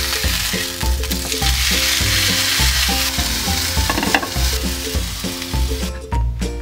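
Chicken breast sizzling in hot oil in a non-stick frying pan, a dense steady sizzle that stops about six seconds in. Background music with a steady beat plays throughout, and there is a short clatter about four seconds in.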